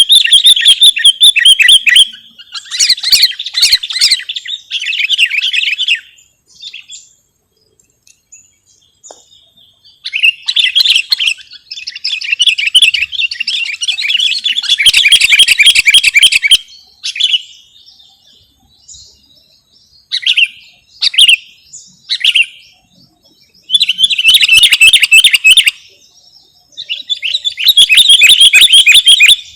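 Sooty-headed bulbul (kutilang) calls in loud bursts of rapid, repeated chirping, a few seconds at a time with short pauses between and a few single short calls in between phrases, as used to lure or train kutilang.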